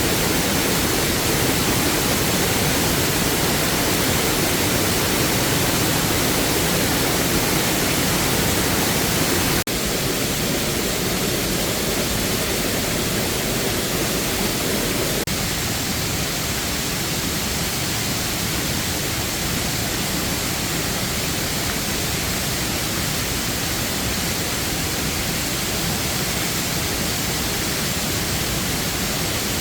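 Steady rush of a waterfall. Its tone changes abruptly twice, about a third of the way in and again about halfway.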